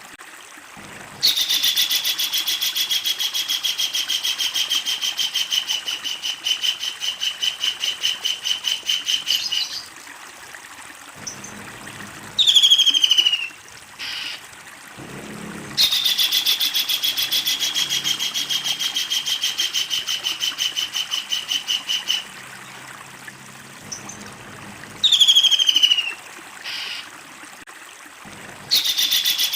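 Kingfisher calling: two long, fast rattling series, each several seconds long, starting high and sliding a little lower, with short sharp down-slurred calls between them and a new series starting near the end.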